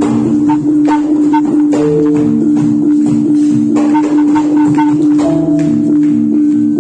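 Jathilan gamelan accompaniment. A long steady tone is held under short repeated metallophone-like notes and a busy run of sharp drum and jingle strokes.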